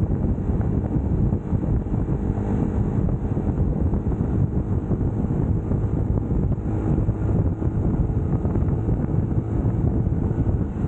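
UM Scrambler X motorcycle engine running at a steady cruise while riding, under heavy wind rush on the helmet-mounted camera's microphone.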